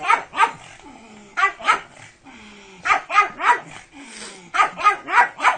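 Pug barking in quick runs of two to four short barks, four runs with brief pauses between them.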